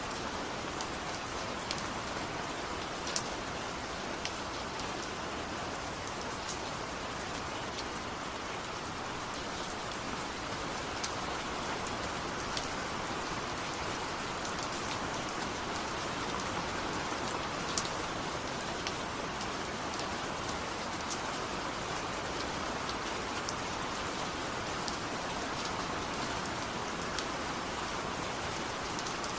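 Steady rain falling, an even patter with scattered sharper drips of single drops landing close by.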